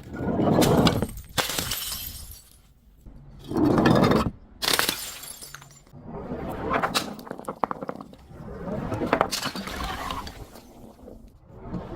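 Glass bottles smashing: a series of about six separate crashes, each followed by the high tinkle of falling shards.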